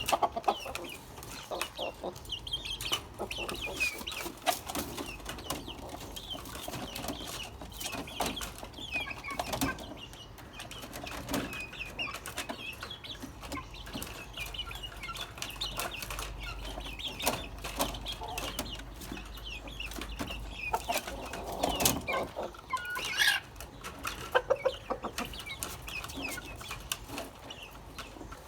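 Chickens clucking, with many short high chirps and frequent sharp clicks and knocks throughout.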